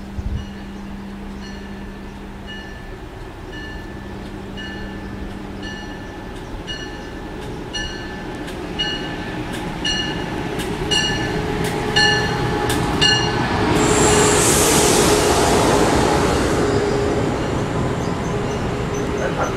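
An Amtrak electric train approaches and comes alongside the platform. For the first dozen or so seconds a bell rings in steady, evenly spaced strokes, a little more than one a second. From about 14 s the rush of the train passing close by swells up loudly and then eases off slightly as the cars slide past.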